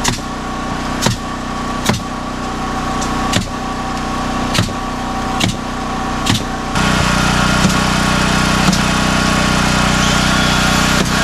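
A small engine running steadily, with sharp knocks about once a second. About two-thirds through, it cuts abruptly to a louder, steady machine noise.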